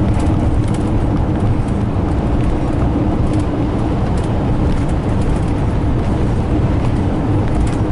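Steady low rumble of a vehicle on the move, heard from inside, with an even engine hum and a few faint clicks.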